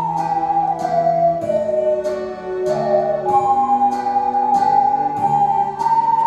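Ocarinas playing a slow melody in pure, flute-like tones over an accompaniment that marks a steady beat, a stroke about every 0.8 seconds.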